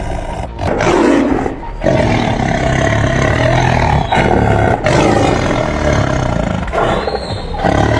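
A big cat, lion or tiger, roaring: several long, loud roars broken by abrupt cuts.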